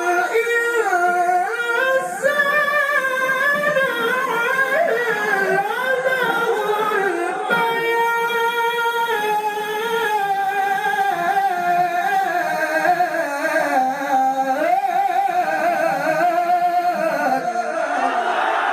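A male qari recites the Qur'an in the melodic tilawah style, drawing out one long phrase in winding ornamental runs that rise and fall in pitch. Near the end the audience's exclamations begin to swell in.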